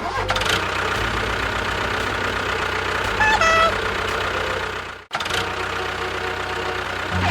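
A small engine running steadily with a fast, rough pulsing. It breaks off for an instant about five seconds in and resumes, and a short whistling squeak is heard a little past the middle.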